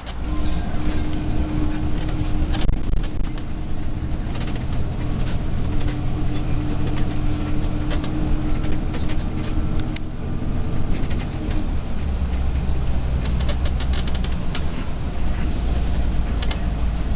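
Motorhome on the road: a steady engine and road drone with a held hum that stops about two-thirds of the way through. Scattered sharp rattles and knocks from the coach run through it.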